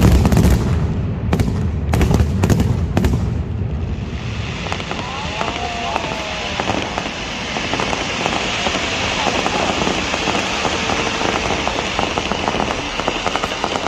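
Aerial fireworks: several loud booms of shells bursting in the first three seconds or so, followed by a long, dense crackling of crackle effects.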